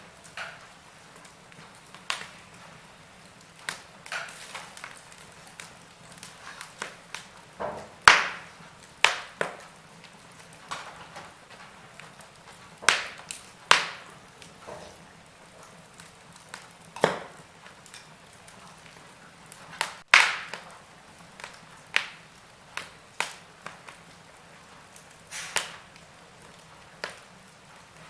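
Burning wood in a fire crackling: irregular sharp pops and snaps every second or so over a faint steady hiss, the loudest pops about 8 and 20 seconds in.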